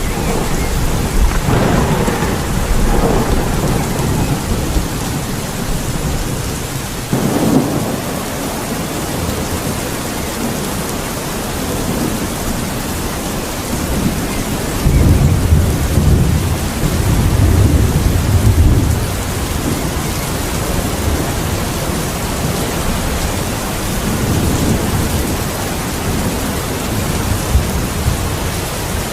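Steady rain in a thunderstorm, with thunder: a sudden clap about seven seconds in and long low rumbles through the middle.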